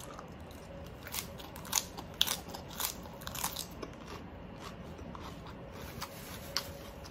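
Close-up chewing of a mouthful of crispy oven-baked pork wrapped in lettuce, with sharp crunches of the crackling skin. The crunches come thick from about a second in, then thin out to a few near the end.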